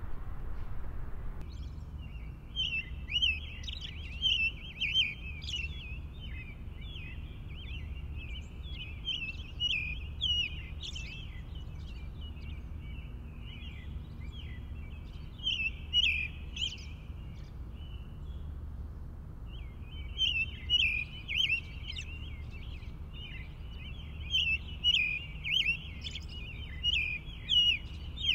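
Small birds chirping and twittering in a dense, continuous chorus, with a brief lull about two-thirds of the way through, over a low steady rumble.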